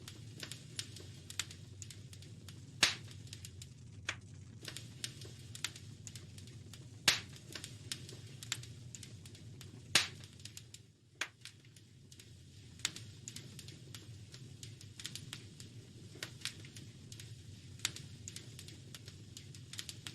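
Wood fire crackling in a fireplace: irregular snaps and pops, three of them much louder, over a steady low rumble.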